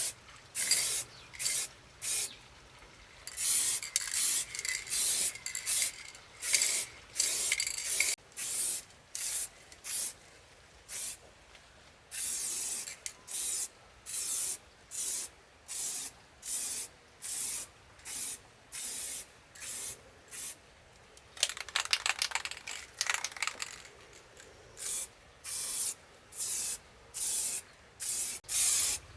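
Short hissing strokes repeating about one to two times a second, with a stretch of rapid rasping a little past two-thirds of the way through.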